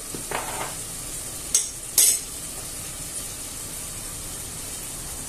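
Chopped onion, red pepper and garlic frying in olive oil in a stainless steel pot, giving a steady sizzle. About a second and a half and two seconds in come two short clinks as a metal teaspoon is set down on a plate.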